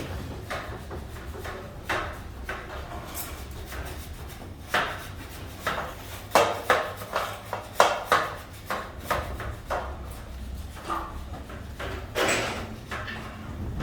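Irregular knocks and clacks of air-conditioner parts being handled and taken apart, over a steady low hum. The knocks come thickest and loudest in the middle.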